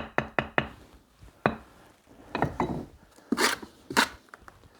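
Bricklaying sounds: a quick run of about five sharp taps on brick, as when a trowel settles a brick into its mortar, then one more tap and a few short scrapes of trowel on brick and mortar.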